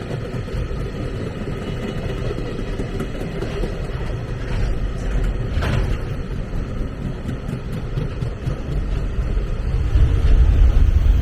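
Train running past: a steady low rumble of wheels on rail, growing louder near the end.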